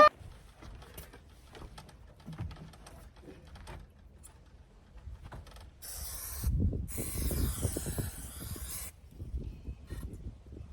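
Aerosol spray can hissing in two bursts, a short one and then a longer one of about two seconds, after a stretch of light handling clicks.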